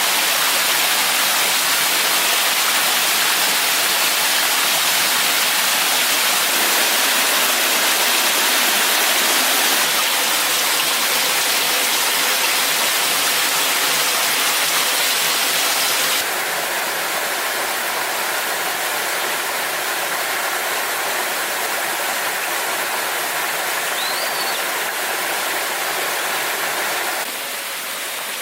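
Steady rush of falling water from a waterfall, an even hiss-like noise with no rhythm; its level steps down abruptly about halfway through and again near the end.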